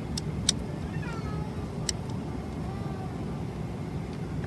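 Steady low rumble of a Boeing 777-300ER airliner cabin in flight, with a few sharp clicks and some faint falling, whine-like calls over it.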